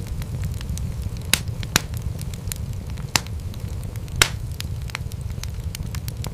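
Wood fire crackling in a fireplace over a steady low rumble, with frequent small crackles and a few louder sharp pops from the burning wood.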